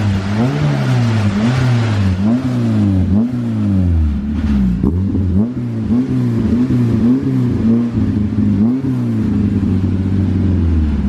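Honda-swapped pro truck's engine revving up and down over and over, its pitch rising and falling about once a second.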